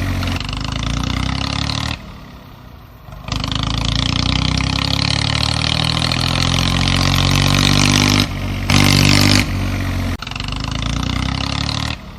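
A motor or engine running steadily, heard in spliced segments that cut in and out abruptly, with a short quieter gap about two seconds in.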